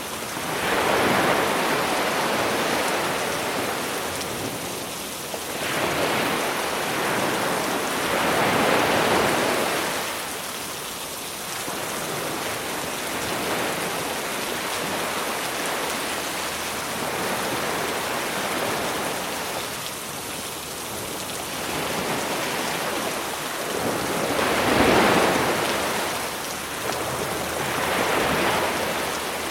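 Steady rain hiss over sea waves breaking on the shore, the surf swelling and falling every few seconds, loudest about 25 seconds in.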